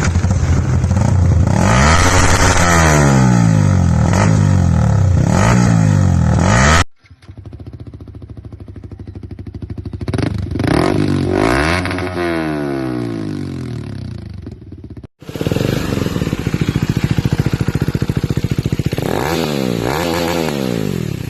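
Motorcycles fitted with aftermarket exhausts being revved, in three separate clips cut together: in each, the engine note rises and falls with repeated throttle blips.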